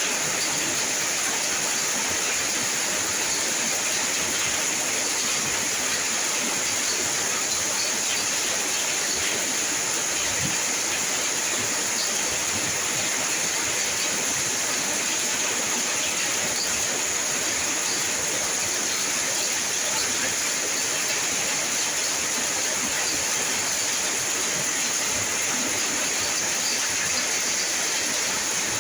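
Steady rain, an even unbroken hiss of falling drops.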